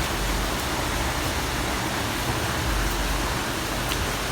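A steady hiss of rain mixed with ground-beef-topped corn tortillas sizzling in oil in a frying pan, with a faint pop or two near the end.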